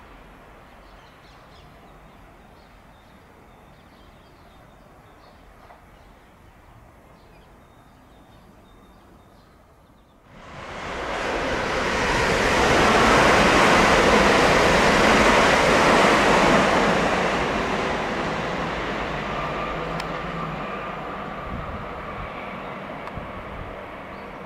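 Electric multiple-unit train passing through the station: a sudden rush of wheel and air noise about ten seconds in, loudest for a few seconds, then slowly fading away.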